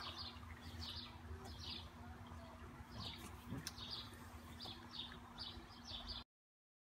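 Small birds chirping faintly, short high chirps every half second to a second, over a low steady hum. The sound cuts off abruptly about six seconds in.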